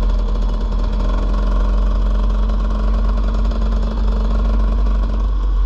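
Dirt bike engine running steadily under way, holding an even pitch, over a heavy low rumble.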